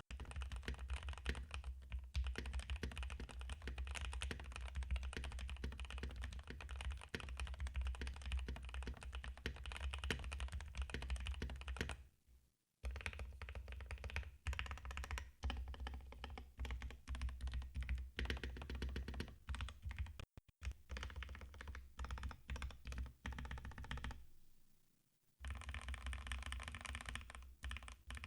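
Rapid, continuous typing on a Vissles V84 75% mechanical keyboard, a dense run of keystroke clacks. It stops briefly about twelve seconds in and again a few seconds before the end.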